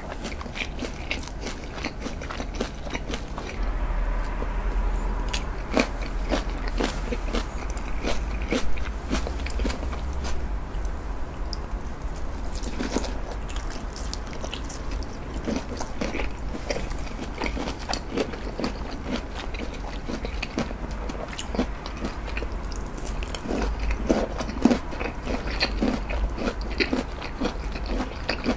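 A person chewing and biting food close to the microphone: a steady run of small mouth clicks and crunches. About halfway through he bites into a pork-belly-wrapped daikon roll.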